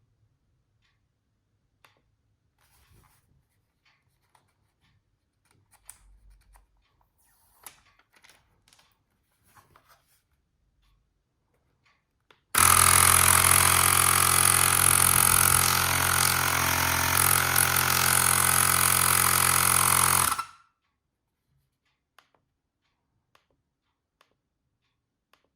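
Xiaomi Portable Electric Air Compressor 1S running: a loud, steady motor-and-pump drone that starts suddenly about twelve seconds in, runs for about eight seconds and cuts off abruptly. Before it come faint clicks and knocks of handling.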